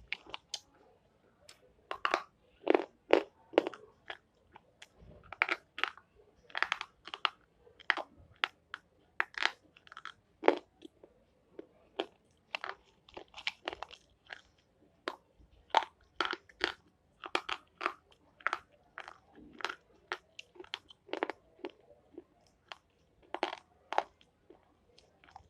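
A long series of sharp, crisp crunches, something brittle being bitten or crushed up close, coming irregularly at a few a second with short pauses between.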